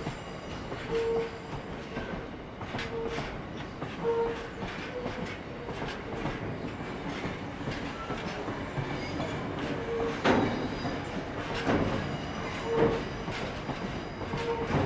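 Freight train's open box wagons rolling past on curved track: a steady rumble of wheels with sharp clicks as they cross rail joints and points, and short wheel squeals every few seconds. The clatter grows louder about ten and twelve seconds in.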